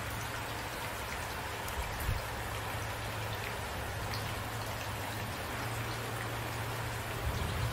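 Steady rain falling, with a continuous hiss and scattered individual drops, a low steady hum beneath it, and brief low thumps about two seconds in and near the end.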